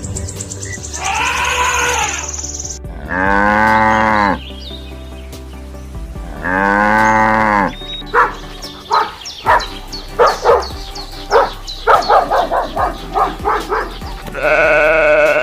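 Farm animals calling: two long moos from cattle a few seconds apart, among other shorter calls, including a rapid run of short calls in the second half, over background music.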